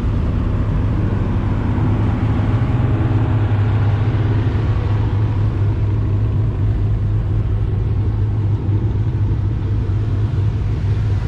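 Ford Mustang's engine running with a steady, deep rumble, held without sharp revs.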